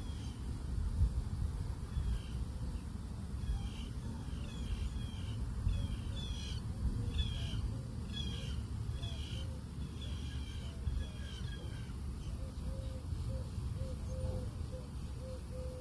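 Wild birds calling: a run of short, high chirps, about one or two a second, then near the end a repeated short low note.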